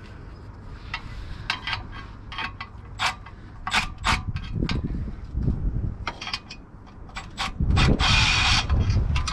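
Hand work on metal car parts: irregular clicks and knocks of tools and parts being handled, with one louder rasping scrape near the end.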